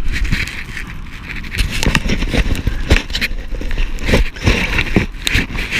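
Wind buffeting the microphone with a steady low rumble, and irregular crackles and scrapes, several a second, over it.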